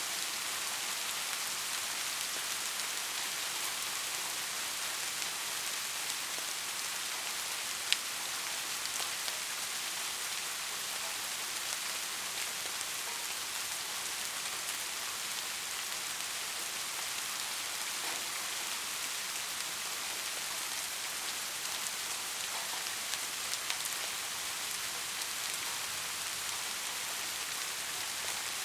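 Steady rain falling, a constant hiss with scattered drop ticks and one sharper drop click about eight seconds in.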